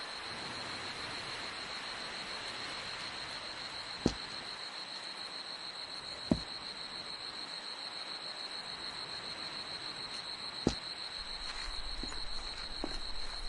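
A steady, high, fast-pulsing insect trill, like crickets, with three sharp clicks over it.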